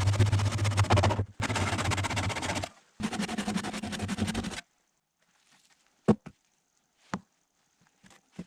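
Hand saw cutting through the end of a log brace: three stretches of rasping sawing, then quiet with two sharp knocks about six and seven seconds in.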